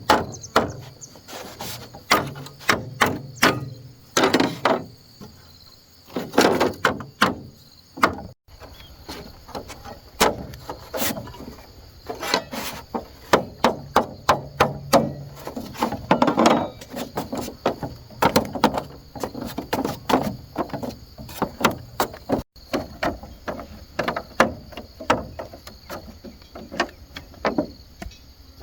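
Bamboo being struck over and over with a tool: runs of sharp knocks, a few a second, with short pauses between the runs.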